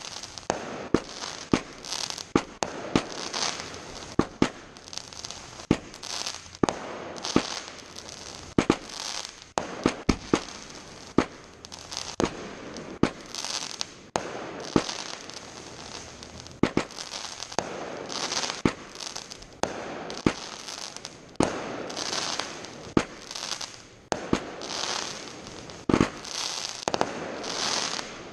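Fireworks display: a dense, continuous barrage of exploding shells, with sharp bangs every second or so and crackling, hissing bursts between them.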